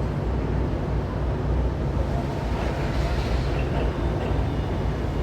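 Steady low rumble of a road vehicle on the move, engine and road noise heard from inside.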